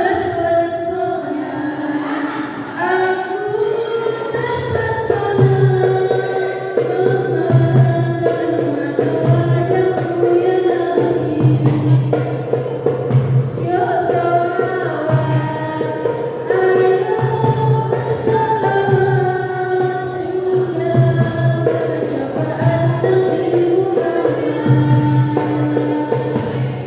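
Sholawat, an Islamic devotional song, sung with a drawn-out melody over a steady low drum beat.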